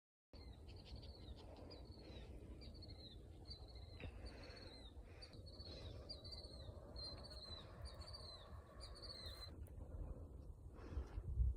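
A bird calling: a short, high, falling note repeated about twice a second for some nine seconds before stopping, faint over wind rumble on the microphone, with a louder low thump of wind or handling near the end.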